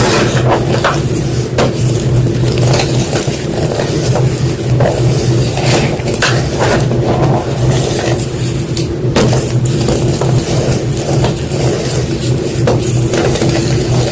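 White gym chalk crunching: an irregular run of crisp crunches and crackles over a steady low hum.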